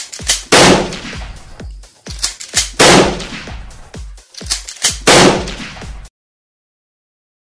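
A string of gunshots, each with an echoing tail, the three loudest about two seconds apart, with smaller shots in between. It cuts off suddenly about six seconds in.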